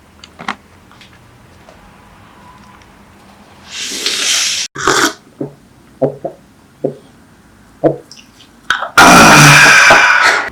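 Eating noises around a meal: scattered short clicks and knocks, two brief noisy bursts about four and five seconds in, and a loud noisy burst near the end.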